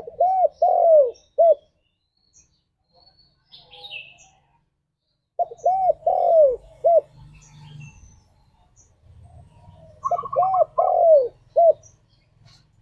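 Spotted dove (tekukur) cooing: three phrases of about four rounded coos each, one phrase roughly every five seconds. Faint chirps from a smaller bird come between the first and second phrases.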